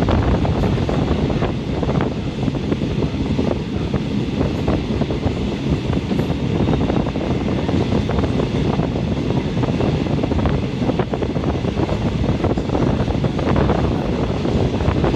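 A train running along the track, heard from a passenger seat by the window: a steady low rumble of wheels on rail, with wind noise and occasional faint knocks.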